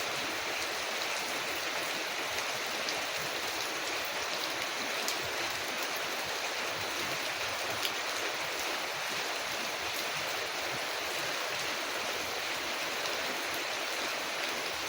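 Rain falling steadily on a window, an even, unbroken hiss, with a few faint sharp ticks and pops scattered through it.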